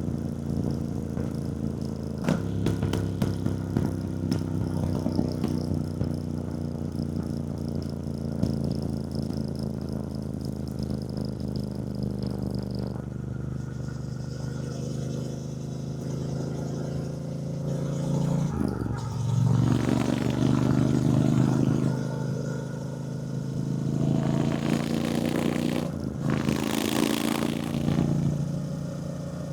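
Triumph Bonneville T120's 1200 cc parallel-twin engine running under way, its note easing down gradually, dipping a little past halfway and then picking up again. Wind gusts on the microphone come and go in the last third.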